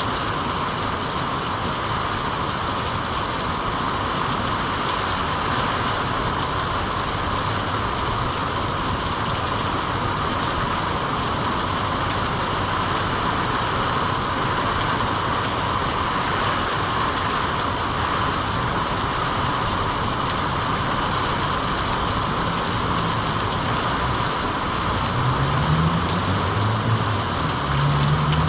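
Steady rain falling, an even unbroken hiss. In the last few seconds a low droning hum with a few stepping tones comes in under it and grows a little louder.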